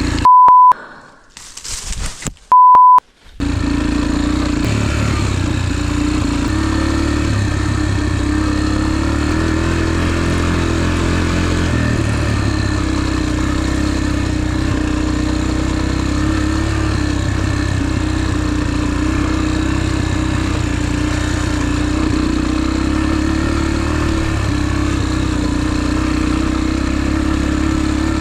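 Two short, steady electronic beeps a couple of seconds apart near the start. About three seconds in, a motorcycle engine starts running steadily under way and carries on through the rest.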